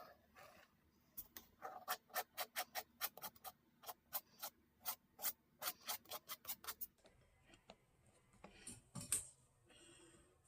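A quick run of light clicks or taps, about four a second, that stops about seven seconds in.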